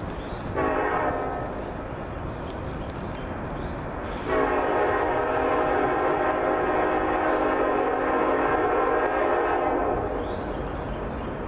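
Locomotive air horn sounding a short blast and then, a few seconds later, a long steady blast of about six seconds, over the low rumble of the train.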